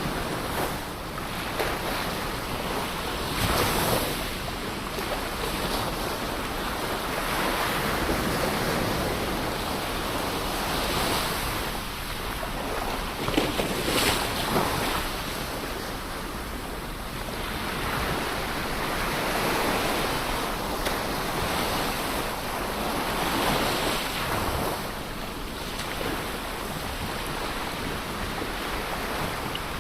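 Ocean waves breaking and washing on a shore, a continuous surf hiss that swells and ebbs every few seconds, with a few sharper splashes about halfway through.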